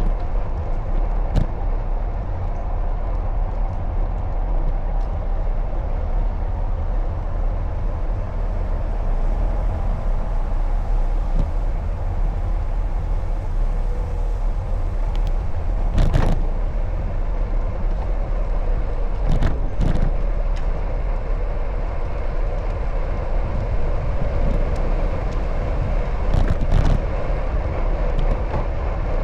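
Steady low rumble of riding along a city street, with car traffic. There are a few sharp clacks about 16 and 20 seconds in, and again near the end.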